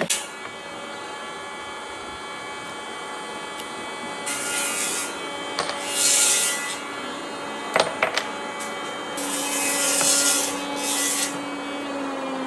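An electric power tool running steadily on wood, with three rasping passes as it bites into the wood, the last and longest about two-thirds of the way through. Two sharp clicks come just before that last pass.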